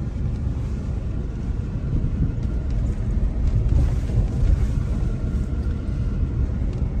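Low, steady rumble of a car in motion: engine and tyre road noise heard from inside the moving vehicle.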